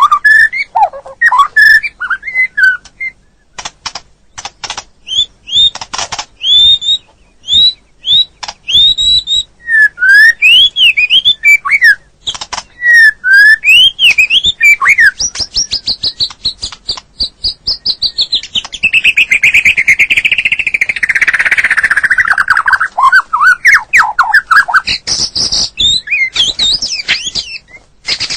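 White-rumped shama (murai batu) singing a varied song of loud whistled notes that sweep up and down, mixed with sharp clicks. About halfway through comes a long, rapid trill that slides down in pitch.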